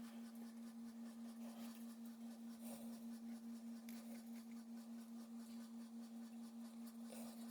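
A faint, steady low hum-like tone that pulses slightly in loudness, with a few faint scratchy noises over it.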